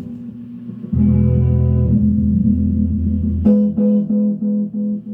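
Guitar played through a restored tube Ecco-Fonic tape echo: held notes ring for a couple of seconds, then a note struck past the halfway point repeats as a run of evenly spaced echoes, about three a second, each fainter than the last.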